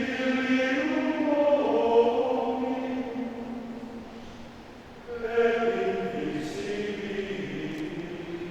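Men's choir singing held chords in two long phrases, each swelling and then dying away, the second starting about five seconds in.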